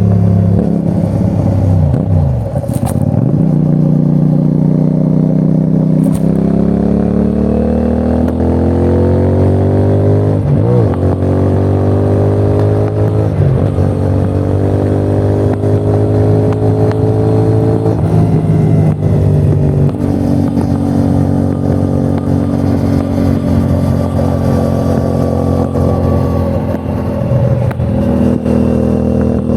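CFMOTO 450NK motorcycle's 449 cc parallel-twin engine under way. Its pitch drops about two seconds in, then rises steadily through the gears, with a break for a gear change about ten seconds in and another around nineteen seconds. It then runs steadier at cruise, with a short dip near the end.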